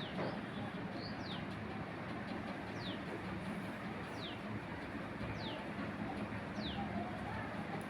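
A small bird repeating a short, high, falling whistle about every second and a half, over steady background noise and a low hum.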